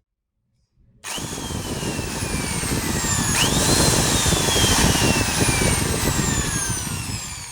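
Dong Cheng DJZ03-16A electric drill starting about a second in and drilling, with a grinding noise under its motor whine. The whine drops steadily in pitch as it works, jumps back up about halfway through and falls again, then fades near the end.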